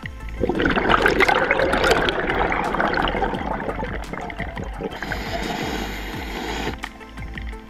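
Underwater bubbling and gurgling of a diver's exhaled air bubbles, starting about half a second in and dying away near the end, with soft background music underneath.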